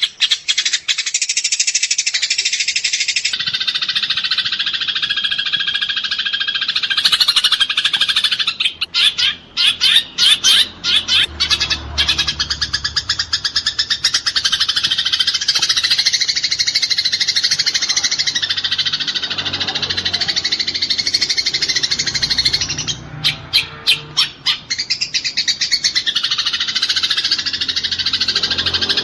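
Eurasian tree sparrows chattering in a dense, rapid stream of high chirps, the harsh calls of sparrows fighting. Twice, about a third of the way in and again near the end, the stream breaks into separate sharp chirps.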